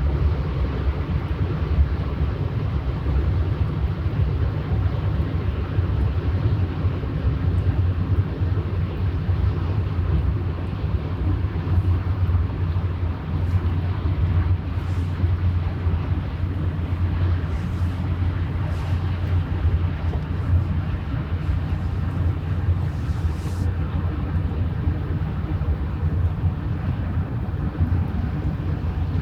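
Low, steady engine drone of a passing ship on the water.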